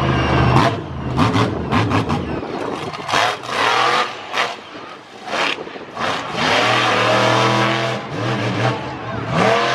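Monster truck engine revving hard, its pitch rising and dropping again and again, with a few sharp cracks in the first couple of seconds.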